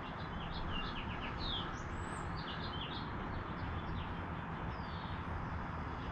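Small birds chirping: a quick run of short, high chirps that thins out near the end, over a steady low background rumble.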